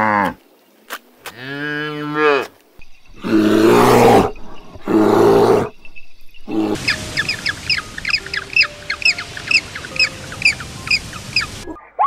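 A cow mooing, the call ending just after the start, then a second shorter low call. Then two rough, growl-like animal calls, followed by about five seconds of quick, high bird chirps, several a second.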